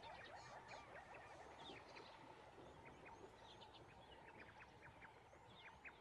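Faint outdoor ambience of small birds chirping: many short, high chirps and little rising calls scattered throughout.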